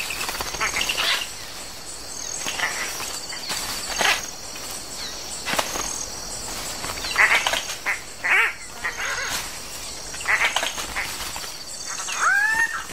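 Male Guianan cocks-of-the-rock giving short, harsh, squawking display calls one after another as they compete at their display ground, with sharp clicks among them and one longer rising-and-falling call near the end. Insects pulse steadily in the background.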